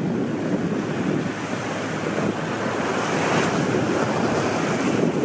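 Strong wind buffeting the microphone over the rush of seawater past a VO65 ocean racing yacht: a steady loud noise, with a brighter hiss of water about three seconds in.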